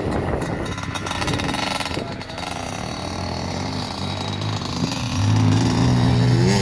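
A 4x4 truck's engine running hard as it tries to climb a steep hill, getting louder about five seconds in and holding a steady note.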